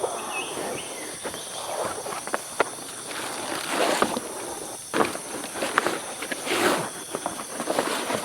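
Steady high-pitched insect chorus in the forest, with irregular rustling and crunching close by and a few sharp clicks.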